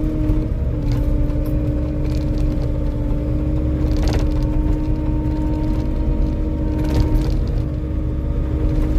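Diesel engine of a compact earthmoving machine running steadily under load, with a held whine that shifts slightly in pitch, and a couple of sharp knocks about four and seven seconds in.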